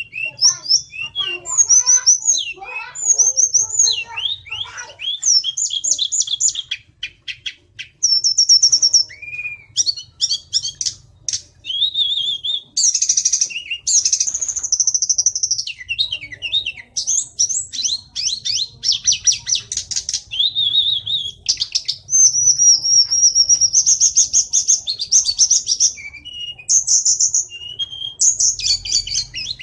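Tledekan (a small Indonesian flycatcher) singing continuously: rapid high trills and chattering phrases, one after another, with only short breaks.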